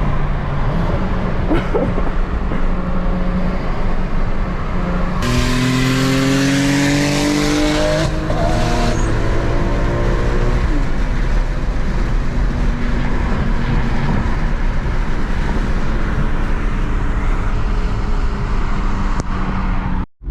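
Car engine cruising, then opened up hard about five seconds in: the pitch climbs, drops at a gear change, and climbs again before easing back to a steady cruise.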